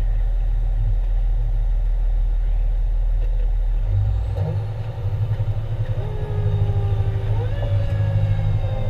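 Fire engine running with a heavy low rumble, its engine note changing about halfway through. About six seconds in, its siren starts up and its pitch climbs, rising sharply near the end before it begins to fall.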